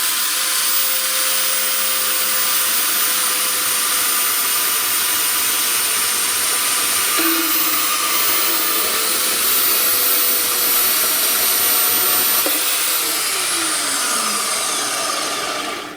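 Small metal-cutting band saw running and cutting through metal stock, most likely aluminium: a steady, loud, rasping cut with a thin high whine. Near the end the saw is switched off and the sound falls in pitch as the blade winds down and stops.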